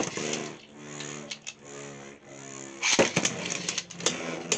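Plastic Beyblade tops and parts being handled: a sharp knock at the start, a steady pitched whir for about two and a half seconds that cuts off suddenly, then a run of quick, sharp plastic clicks.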